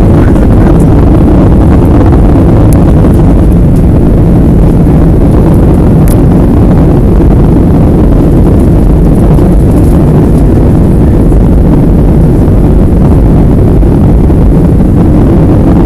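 Airliner cabin noise: a loud, steady low rumble of engines and rushing air, with no change.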